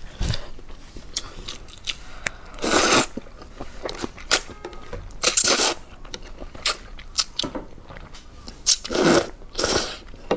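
Person eating: crunching bites and chewing, with several louder noisy bursts about three, five and nine seconds in.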